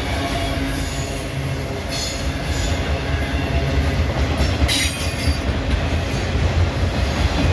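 Freight train cars rolling past: a steady low rumble of wheels on the rails, with brief high-pitched wheel squeals about two seconds in and again near five seconds.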